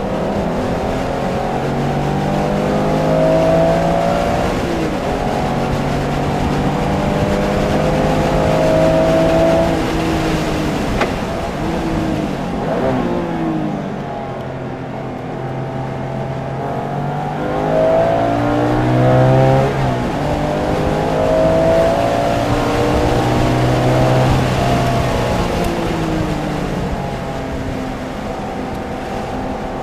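Porsche engine at full throttle on a racetrack, its pitch climbing through the gears with drops at each upshift. About midway it falls away under braking with quick downshift blips, then climbs hard again.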